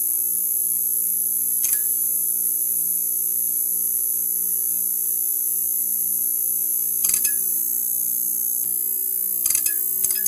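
Neon sign buzzing: a steady electrical hum under a high hiss, with brief crackling clicks about two seconds in, around seven seconds, and a quick run of them near the end.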